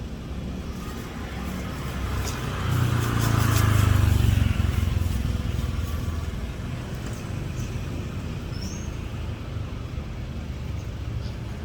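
Low engine rumble of a passing motor vehicle, growing louder to a peak about four seconds in and then fading back to a steady background traffic rumble.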